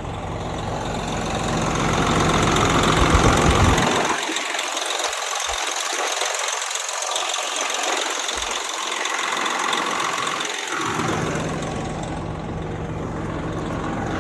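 Older semi truck's rebuilt diesel engine running steadily. Its deep low rumble drops away for several seconds in the middle and then returns.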